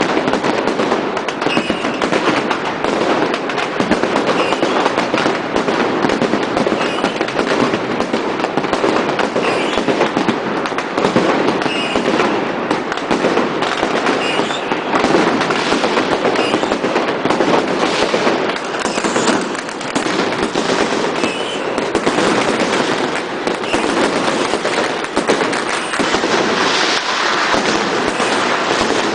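Dense, continuous barrage of fireworks and firecrackers going off from all around, a constant crackle of overlapping bangs with no let-up.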